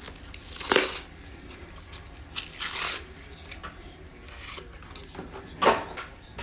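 Packaging of a trading card box and its foil card packs being torn open by hand: three ripping, crinkling bursts, about a second in, around two and a half seconds in, and near the end.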